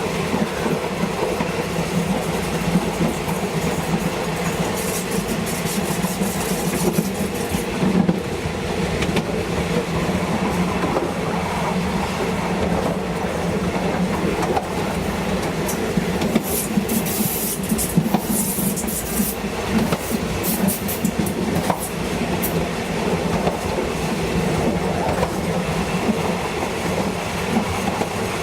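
State Railway of Thailand train running on the rails, heard from on board: a steady rumble with wheels clattering over the rail joints. Short high-pitched bursts come about a fifth of the way in and again just past the middle.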